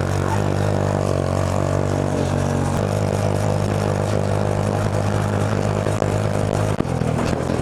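Go-kart engine running steadily, its pitch shifting slightly a couple of times.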